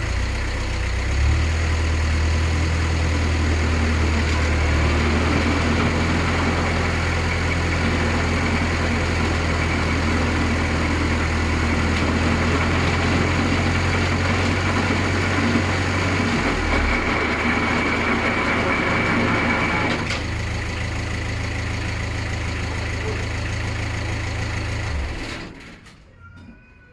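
Vehicle engine running steadily with a low hum, and a faint high whine for a few seconds past the middle; the engine sound cuts out abruptly shortly before the end.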